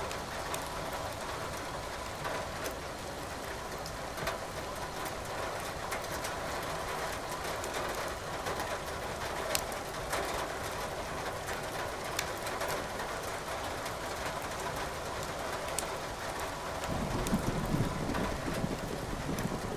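Firewood crackling in a fireplace, with sharp scattered pops over a steady patter of rain. Near the end a low rumble of thunder rolls in.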